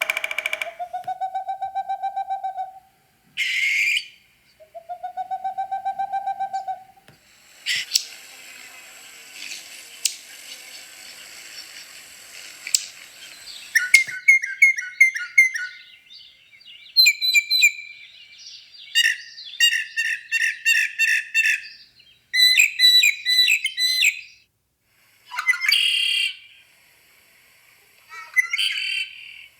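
Songs and calls of several different birds, one recording cut to the next: two long held calls about two seconds each, then chirps, trills and runs of fast repeated notes.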